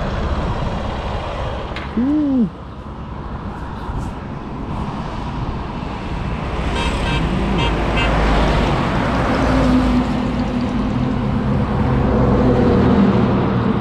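Road noise from a motorcycle ride: a steady rumble of engine and wind, with other traffic around. About two seconds in a short tone rises and falls in pitch, and from about nine seconds a steady engine drone grows louder, as of a vehicle close by.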